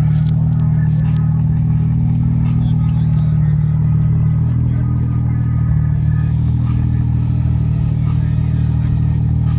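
Car engine idling steadily with a deep, even low note.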